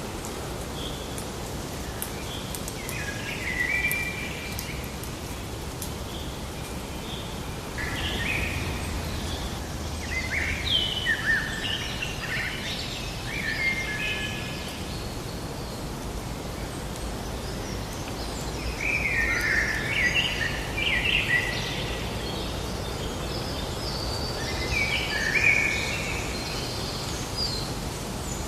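Forest ambience: songbirds calling in bursts of short chirps over a steady background hiss.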